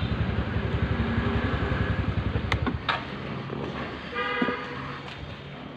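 Road traffic: an engine runs with a fast, even pulsing, then drops away after about three seconds. A vehicle horn honks about four seconds in.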